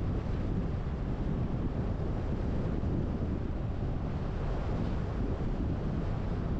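Steady low wind and road noise from a car driving, with no change in pitch or level.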